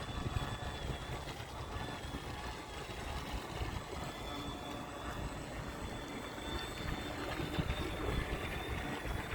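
Radio-controlled model Tyne-class lifeboat running on the water: a faint, steady high motor whine under wind buffeting the microphone.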